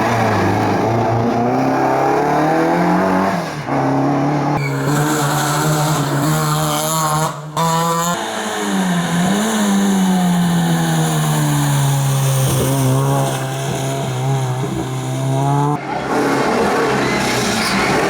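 Historic rally car engines revving hard at full stage speed, pitch climbing and dropping with gear changes, in several short clips cut abruptly one after another.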